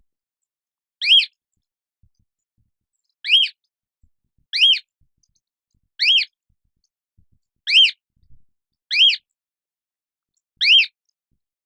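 Cockatoo calling: seven short calls, one every second or two, each rising and then falling in pitch, with silence between them.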